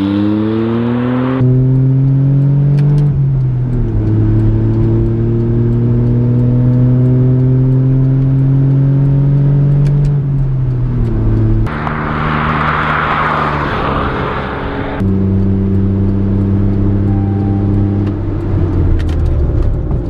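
Smart City Coupe's small three-cylinder engine accelerating hard, its pitch climbing slowly through each gear and dropping back at the gear changes, about four, eleven and a half and fifteen seconds in.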